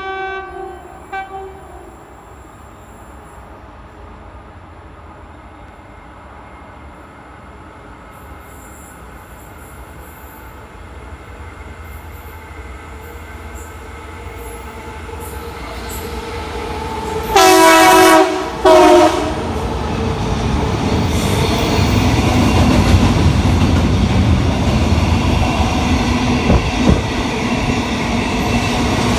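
Train horn sounding a short blast, then two loud blasts as the train draws near. The train then passes with a steady rumble and wheel clatter.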